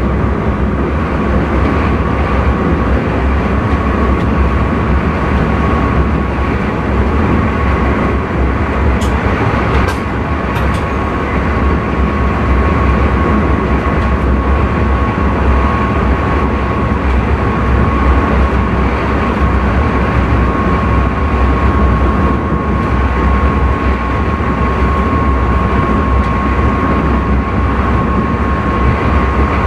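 Intercity train running along the line, heard from inside the driver's cab: a steady low rumble of wheels on track with a thin steady high tone throughout, and a few brief clicks about nine to eleven seconds in.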